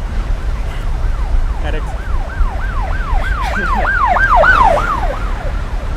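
Emergency vehicle siren in a fast yelp, its pitch swooping up and down about three times a second, growing louder to a peak a little past the middle and then fading away. Wind rumbles on the microphone underneath.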